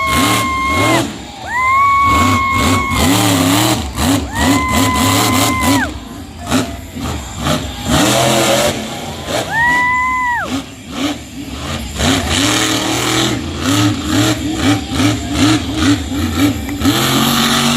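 Monster truck engine revving hard, four times rising to a held high-pitched peak for a second or so before dropping back, over a steady low engine rumble.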